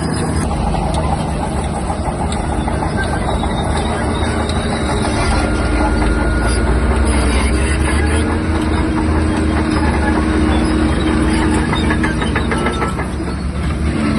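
Shantui DH17-C3 crawler bulldozer's diesel engine running steadily under load, with the clanking clatter of its steel tracks.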